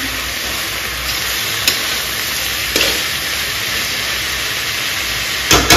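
Sliced onions and tomatoes sizzling as they fry in a kadhai, with a few light clicks of a metal spatula stirring them and a couple of sharper knocks of the spatula on the pan near the end.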